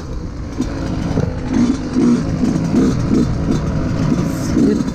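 Yamaha YZ125 two-stroke dirt bike engine revving up and down over and over as the bike is ridden.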